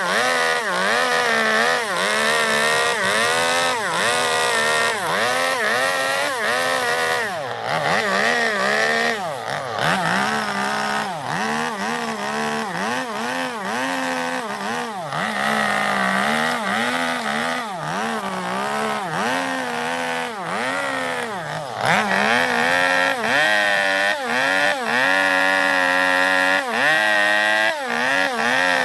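Chainsaw carving into zelkova wood to hollow out a bowl, its engine pitch dipping under load and rising again about once a second as the bar bites and lifts.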